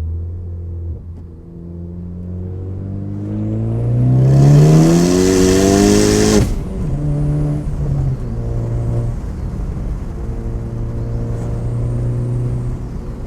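2018 Ford Focus ST's turbocharged 2.0-litre four-cylinder, fitted with a big Garrett GTX2867R Gen2 turbo, accelerating hard. The engine note climbs steadily for about five seconds under a loud rushing hiss, and both cut off sharply about six seconds in, at a lift or gear change. The engine then runs on at a lower, steadier note.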